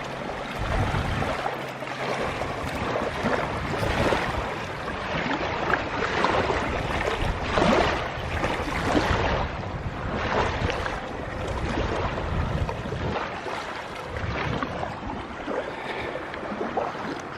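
Small lake waves lapping and washing onto the shore, swelling and easing in irregular surges every second or two.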